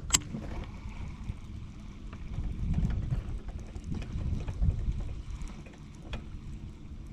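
Wind buffeting the microphone on an open boat: a low rumble that swells and fades in gusts, with a sharp click just after the start.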